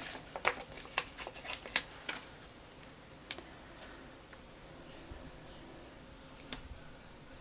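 Light, irregular clicks and taps of paper stickers and a planner being handled at a desk: a quick run of clicks in the first two seconds, then occasional single ones and a sharper click near the end.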